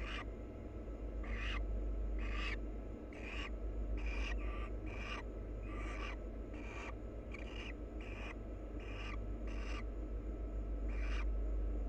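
Barn owls making short, raspy, hiss-like calls, repeated irregularly about once a second, over a steady low electrical hum from the nest-box camera.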